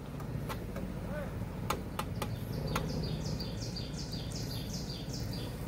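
A bird calling a quick series of short, falling chirps, about three a second, for roughly three seconds from midway through. Under it runs the low, steady hum of the 4x4's engine as it crawls over the dirt, with a few faint clicks.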